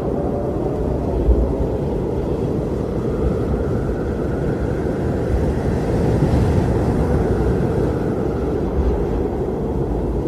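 Strong blizzard wind blowing steadily: a low rushing noise with a faint higher howl that swells and fades.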